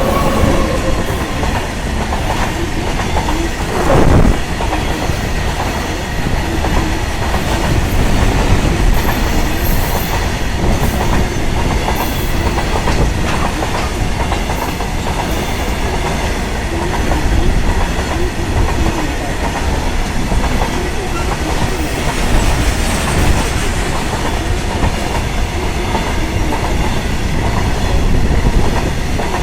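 Goods train running past: a steady rumble with wheels clattering over the rail joints. A sharp knock about four seconds in.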